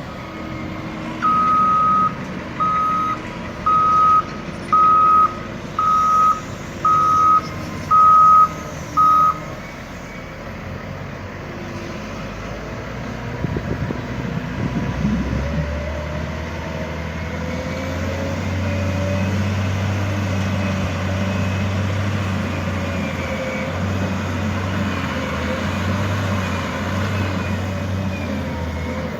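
Backup alarm on a heavy earthmoving machine beeping about once a second, eight times, over a running diesel engine. After the beeps stop, the engine grows louder partway through and keeps running steadily.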